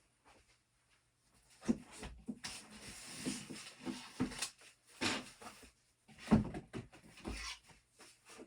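Objects being handled and set down: a series of irregular knocks with scraping and rustling between them, loudest a little after six seconds in.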